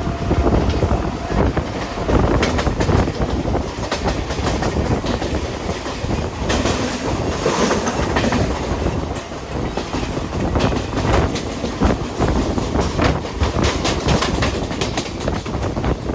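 Mumbai suburban local train (electric multiple unit) running along the track, its wheels clattering over rail joints with a continuous rushing noise.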